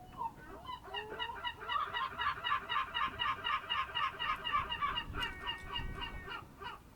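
A bird calling a fast, even run of repeated notes, about six a second, for around five seconds, ending in a few longer drawn-out calls.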